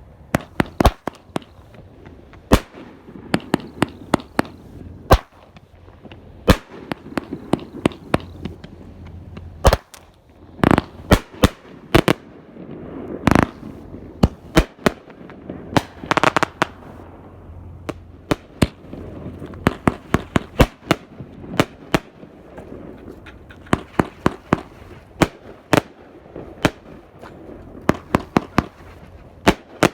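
Fireworks going off: dozens of sharp bangs at irregular intervals, some loud and some fainter, with a quick string of rapid pops about halfway through.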